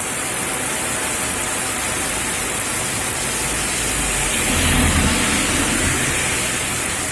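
Heavy rain falling on a road and roofs, a steady hiss. A low rumble swells briefly around the middle.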